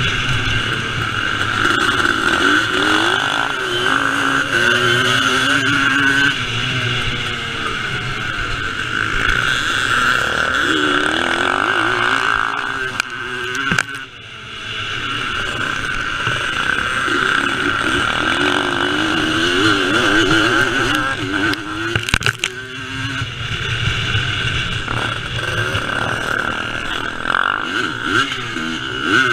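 Vintage motocross motorcycle engine ridden hard, its pitch rising and falling repeatedly as the throttle is opened and shut, with a brief drop off the throttle about halfway through.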